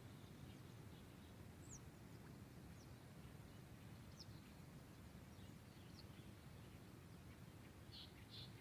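Near silence: faint outdoor ambience with a steady low rumble, and a few faint, high, quick bird chirps scattered through it, with a short cluster of chirps near the end.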